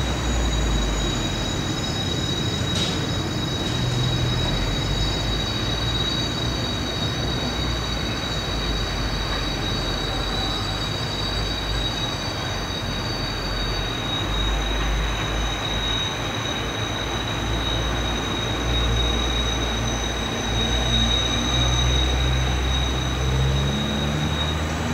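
Freight train of open-top wagons rolling slowly through a rail yard: a steady low rumble with high-pitched wheel squeal, several held tones at once, the upper ones dying away about halfway through while one squeal carries on almost to the end.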